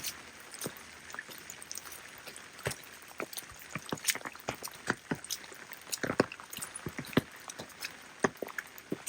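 Rain falling, with a steady hiss and many irregular nearby drops tapping sharply at random.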